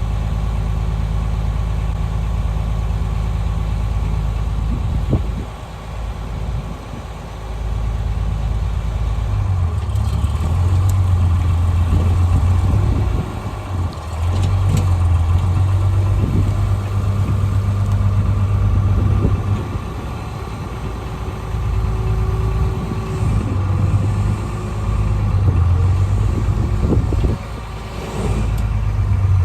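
Farmall 666 tractor engine running: steady at first, then from about ten seconds in it works harder, its speed rising and falling with several brief dips.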